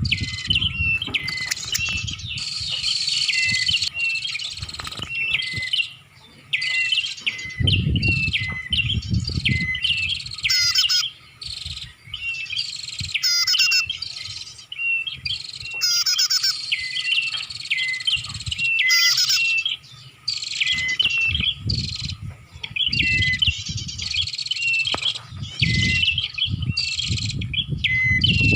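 Prinia (prenjak) calling as a lure recording: fast, repeated high chirping phrases with short breaks between them, and low rumbling underneath at times.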